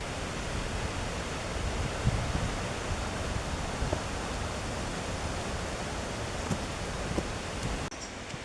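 Steady rushing of falling water from Queen Mary Falls, a dense even roar, dropping slightly in level just before the end.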